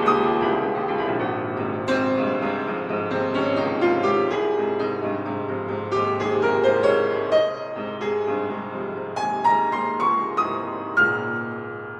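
Soft, slow solo piano music: background music.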